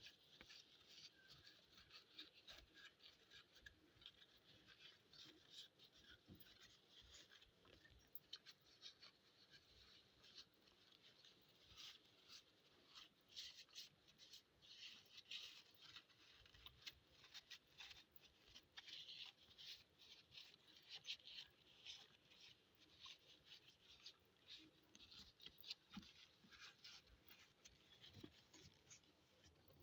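Faint, irregular scratching and light clicking, as from handwork on a small model, close to near silence.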